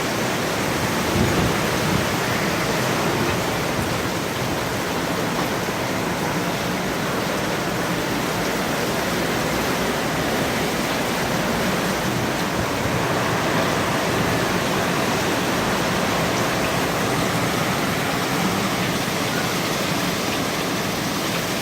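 Hurricane-force wind driving rain: a steady, loud rushing noise without letup, swelling a little now and then.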